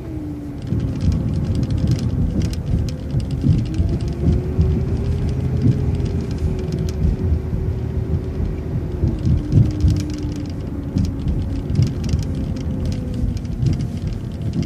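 City bus running, heard from inside: the drivetrain whine rises in pitch about four seconds in and drops back near nine seconds, over a steady road rumble with small rattles and knocks. The loudness steps up about a second in as the bus gets under way.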